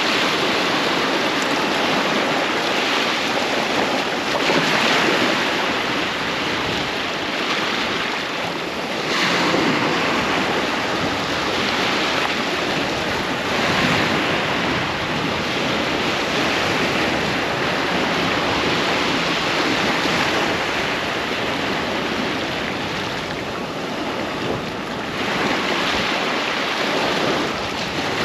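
Ocean waves breaking and washing up on a sandy beach, a continuous surf wash that swells every few seconds as each wave comes in. Wind buffets the microphone.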